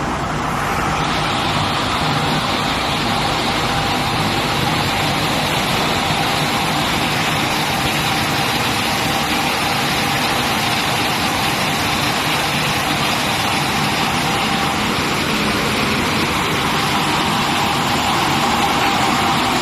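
A 3000 mm flat-glass washing machine running: a steady, even mechanical noise with a faint constant tone.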